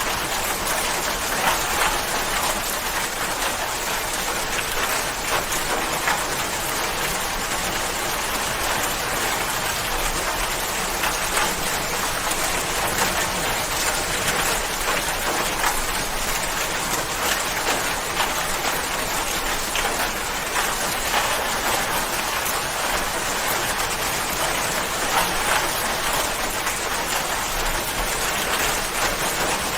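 Steady, dense rain falling and pattering on a surface, many small drop hits in an even hiss.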